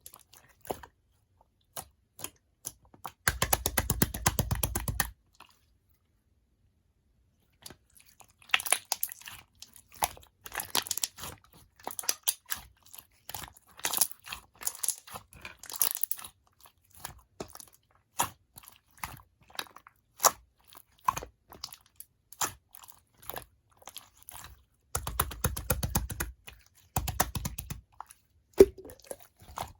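Clear slime being squished and pressed by hand, making irregular wet clicks and pops. There are fast runs of clicking a few seconds in and again near the end, and a short silent gap before the eighth second.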